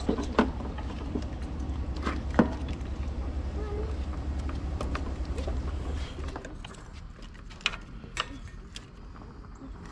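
A few sharp clicks and knocks of plastic wiring-harness connectors being pushed into the back of a new headlight housing, over a steady low hum that fades out about six seconds in.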